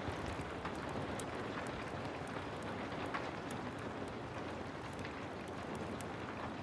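Heavy rain falling in a steady hiss, with a wood fire's scattered sharp crackles and pops over it.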